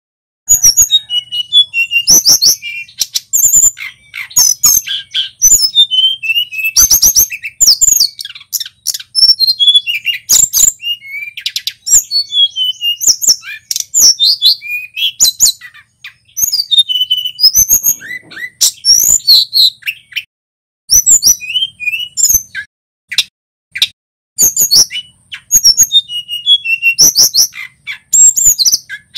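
A male tledekan gunung songbird singing in fast phrases of high, sliding whistles and chirps, broken by short pauses.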